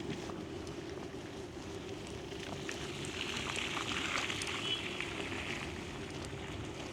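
City street ambience in winter: a steady low rumble with scattered small clicks, and a hiss that swells and fades over about three seconds in the middle, like a vehicle passing.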